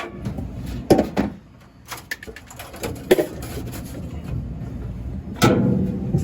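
Clicks and knocks of hands and tools working on a prep table's temperature controller, a handful of sharp strikes with the loudest about five and a half seconds in, over a low steady background noise.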